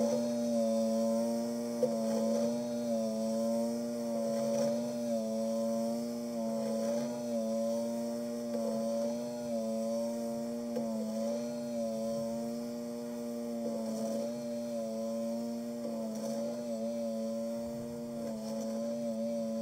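Craftsman lawn tractor's Briggs & Stratton engine running steadily at a governed speed while plowing, a constant hum whose pitch wavers slightly as the load changes.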